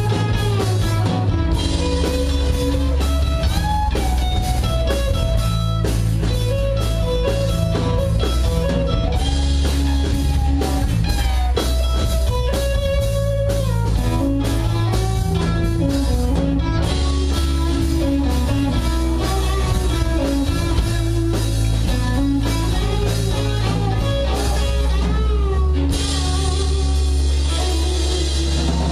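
Live rock band playing: an electric guitar lead with bending notes over bass and a drum kit.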